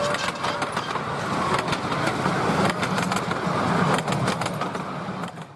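A 10.25 inch gauge miniature steam train running, with a steady low rumble and many irregular clicks; a short steady whistle note ends right at the start, and the sound fades out at the end.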